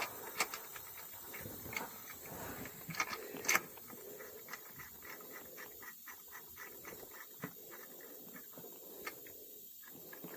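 Metal hand tools clinking a few times as a larger tap wrench is fitted to a thread tap, then a run of light, quick clicks, about five a second, as the tap is worked. The clicks fade out about two-thirds of the way through.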